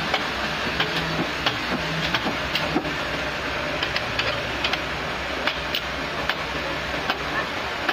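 Portable sawmill running: a steady mechanical noise with a faint on-and-off hum and scattered sharp clicks and ticks at no regular spacing.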